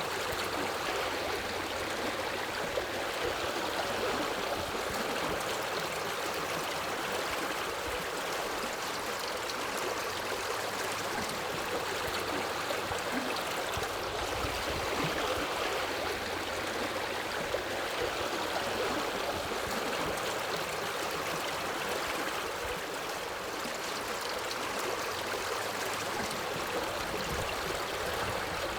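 Steady rush and gurgle of a forest river flowing over rocks.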